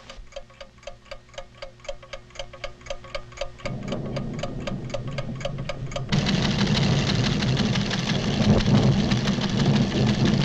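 Steady mechanical ticking of scientific recording instruments, about four ticks a second, as a cartoon sound effect. A low hum joins partway through, and about six seconds in a louder, dense wash of sound with a low drone takes over and covers the ticking.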